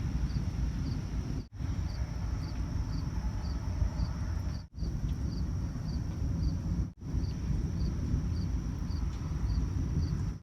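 Crickets chirping about twice a second over a steady high insect trill, with a steady low background noise underneath. The sound drops out briefly three times.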